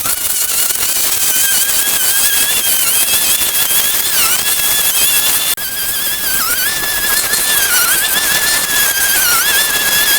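A high-speed motor running steadily with a loud hiss, its high whine dipping briefly in pitch a few times.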